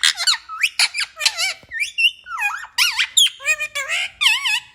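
Pet parrot chattering in a rapid string of short, high whistles and squawks, each note sweeping up and down in pitch, then stopping abruptly near the end.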